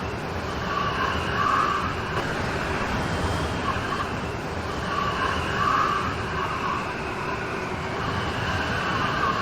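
Steady heavy rain with a swell in pitch that comes back about every four seconds.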